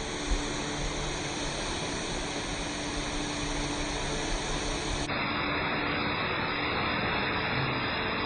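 Steady rushing of the Henrhyd Falls waterfall, falling water making an even noise with no separate splashes.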